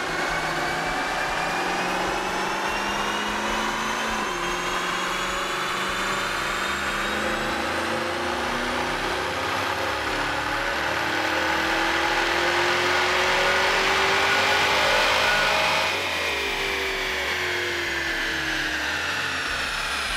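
2010 Camaro's L99 V8 in a fourth-gear chassis-dyno pull on the stock tune, the baseline run: the engine note climbs steadily and gets louder for about fifteen seconds, then the throttle is lifted and the revs fall away.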